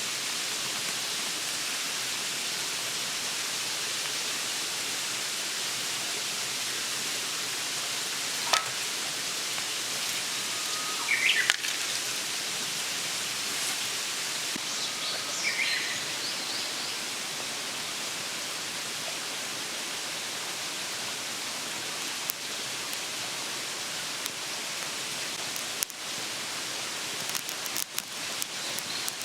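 A few short bird calls, chirps coming in three or four brief bursts, over a steady outdoor hiss. Some light clicks or taps come near the end.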